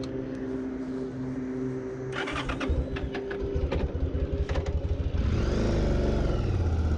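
A Yamaha DragStar 1100's air-cooled V-twin engine starting up: a string of clicks and knocks, then about five seconds in the engine catches and runs with a loud, low, even pulse.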